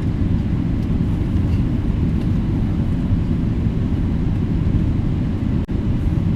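Steady low rumble heard inside the cabin of a Boeing 777-300ER, from its GE90 engines and airframe, with a brief dropout about five and a half seconds in.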